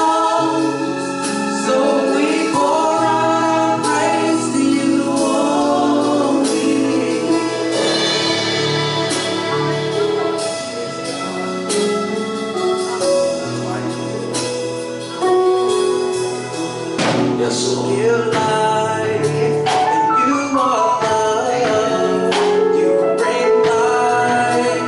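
Gospel worship music: singing over instruments, with frequent percussion hits.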